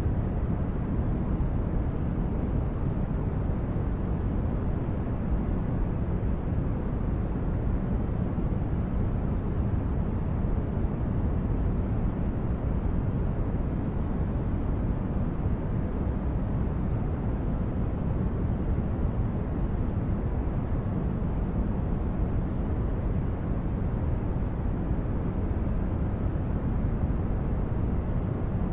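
Steady low, rumbling brown-noise hum of a synthesized sci-fi spaceship engine ambience, unchanging throughout.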